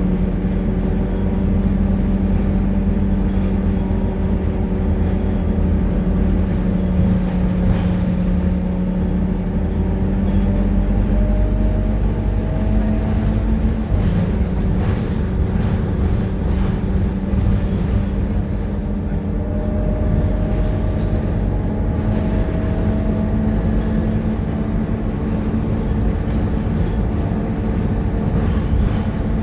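Scania K230UB city bus's diesel engine running steadily under way, its pitch shifting as the bus changes speed, with a whine that glides upward twice.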